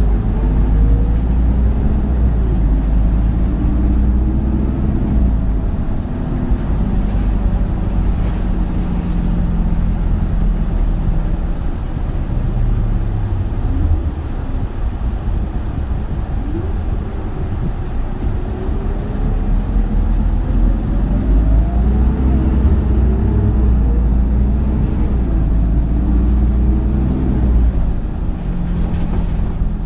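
Diesel engine and drivetrain of an Isuzu Erga (2RG-LV290N3) city bus heard from inside the passenger cabin while it drives. The engine pitch climbs and drops repeatedly as it works through the gears, eases off around the middle, then rises again as the bus pulls away.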